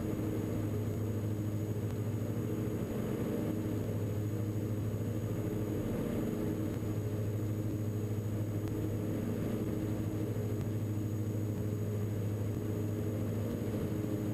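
Diamond DA42 NG's twin Austro AE300 turbodiesel engines droning steadily at climb power, heard inside the cockpit as an even low hum.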